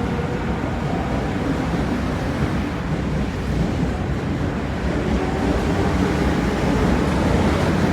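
Osaka Metro Midosuji Line train running along the platform, a steady rumble of wheels and running gear with a faint motor whine, and wind noise on the microphone.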